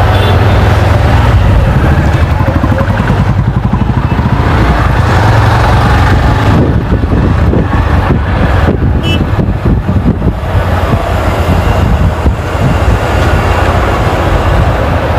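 Motorcycle being ridden along the road: loud, steady engine and road noise with no break.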